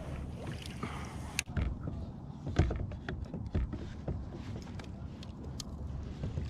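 Scattered small knocks and taps of gear handled on a kayak, over a low steady rumble of wind and water.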